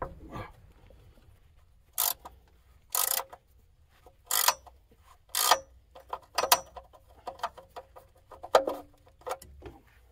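Metal hand tools clinking and clattering as they are handled, in about ten short irregular bursts.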